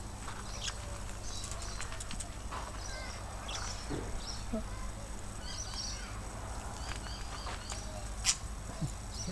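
Budgerigars chirping in scattered short calls, with a few sharp clicks, the loudest about 8 seconds in, over a steady low hum.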